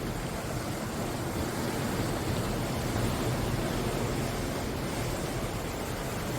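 Ocean surf: a continuous wash of breaking waves, heavy in the low end and without distinct crashes.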